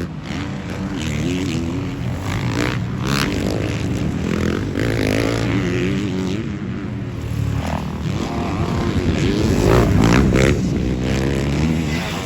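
Motocross dirt bikes racing on the track, their engines revving up and down in pitch as they accelerate and back off, several at once overlapping.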